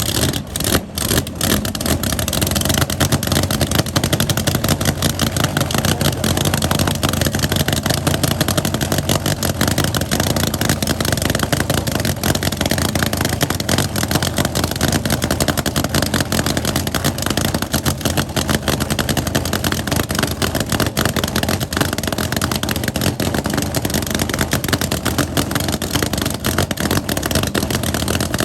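Loud car engine running steadily, with a rapid, rough pulse.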